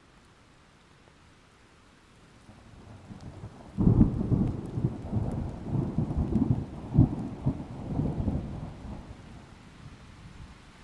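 A thunderclap: a low rumble builds, breaks sharply about four seconds in, then rolls on in several waves for about five seconds before fading, with a faint hiss of rain underneath.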